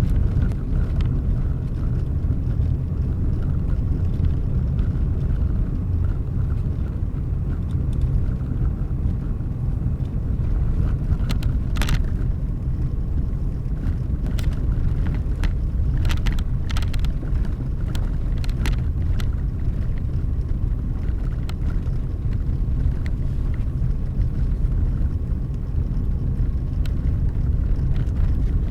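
Car driving along a road, a steady low rumble of engine and tyre noise. Scattered sharp ticks and clicks come through it, mostly in the middle.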